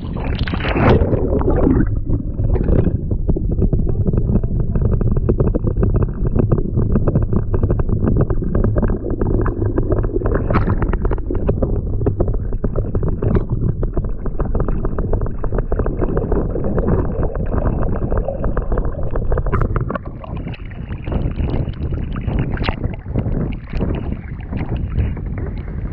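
Paddling a kayak: continuous wind noise on the microphone over water splashing from the paddle strokes.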